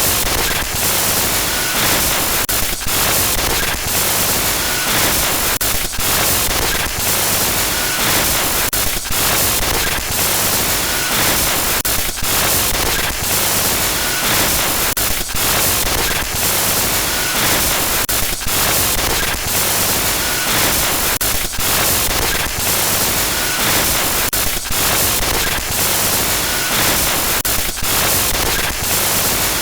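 Synthesized glitch noise: loud, harsh static hiss across the whole range, cut by brief dropouts at uneven intervals, with a faint short blip about every three seconds.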